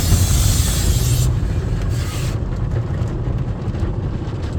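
Automatic tunnel car wash heard from inside the car: a hiss of spray on the car for about the first second that fades out, over a steady low rumble of the wash machinery.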